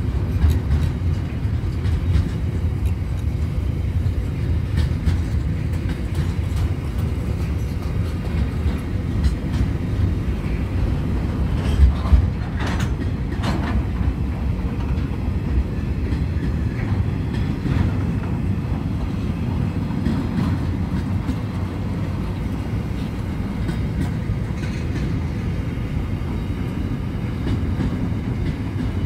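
Container freight train's wagons rolling past on the rails, a steady low rumble of steel wheels with a louder clatter about twelve seconds in.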